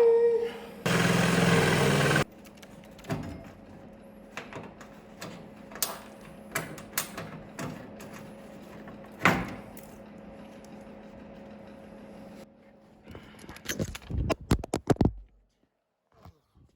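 A power tool runs in a short burst, then scattered knocks and clanks of shop work over a steady low hum, with a quick run of knocks near the end.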